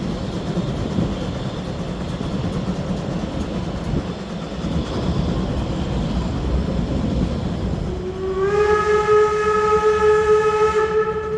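Narrow-gauge steam locomotive 99 1794-9 running with its train, a steady rumble. After about eight seconds it sounds its steam whistle in one long blast of about three seconds, sliding up slightly in pitch as it opens.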